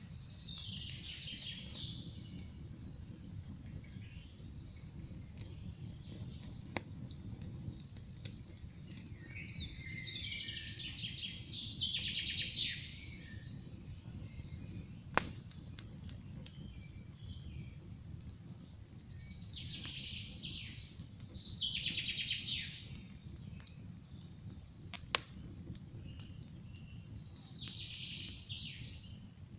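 Songbirds singing short trilling phrases that fall in pitch, one about every eight to ten seconds, over the low steady noise of a campfire burning. Three single sharp pops from the fire.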